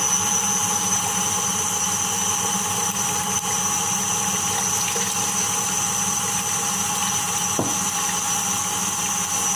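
Electric blender motor running steadily, churning a liquid cake batter of eggs, sugar and oil, with a steady whine over a rushing, sloshing noise.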